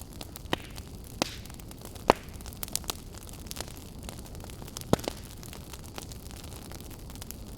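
Wood campfire crackling: a steady low hiss broken by irregular sharp pops, the loudest about two seconds in and just before five seconds.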